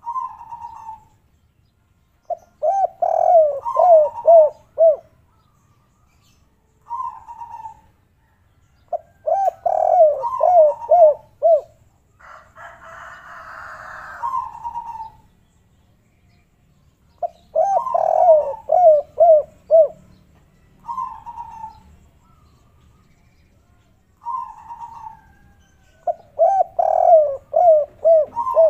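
Spotted doves cooing in the 'kuk 3' song, single coo notes alternating with runs of four or five quick coos, repeated over and over. A short hiss sounds about halfway through.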